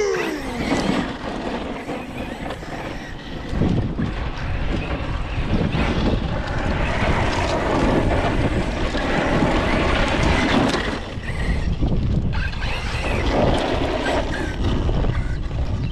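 Arrma Notorious 6S brushless 1/8-scale RC stunt truck running, its motor whine falling just at the start, then a rough, rumbling run that swells and dips. Wind buffets the microphone throughout.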